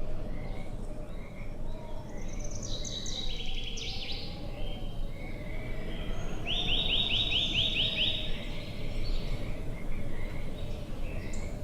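Songbirds singing: a rapid descending trill about two and a half seconds in, and a quick run of about nine repeated notes around six and a half seconds in, over a steady low background noise.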